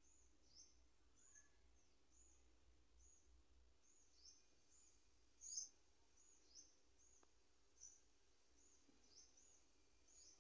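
Faint, high-pitched bird chirps repeating about twice a second over near-silent room tone, one a little louder about halfway through.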